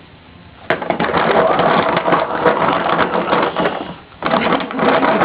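Loud crackling, crunching rustle made of many close clicks, starting about a second in, breaking off briefly after about four seconds, then starting again.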